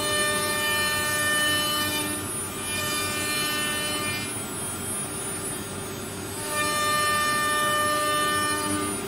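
CNC router spindle running with a steady, many-toned whine. The whine fades into a hissing noise twice, briefly about two seconds in and longer from about four to six and a half seconds, then comes back.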